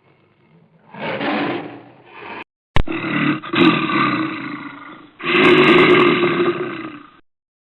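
Big cat roaring in three long, rough bouts, with a sharp click just before the second.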